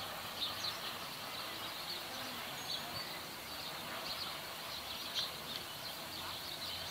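Small birds chirping, with many short, high calls scattered over a low, steady outdoor background hiss.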